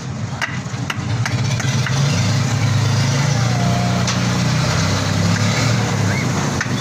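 An engine running steadily with a low hum that grows louder about a second and a half in, with scattered light knocks of work on the site.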